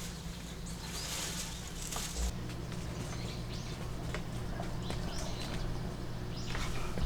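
Outdoor ambience: scattered short bird chirps over a steady low hum, with bits of rustling.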